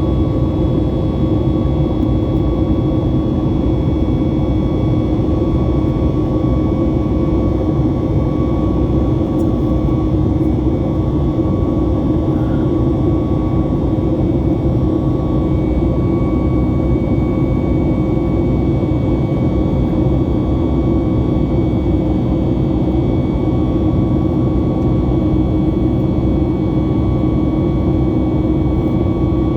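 Boeing 737 MAX 8's CFM LEAP-1B turbofan engines at climb power, heard from inside the cabin: a steady roar with several steady whining tones over it.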